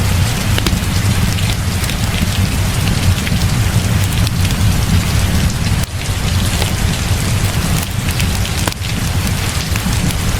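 Heavy rain falling steadily, with a continuous low rumble underneath and scattered sharp ticks through it.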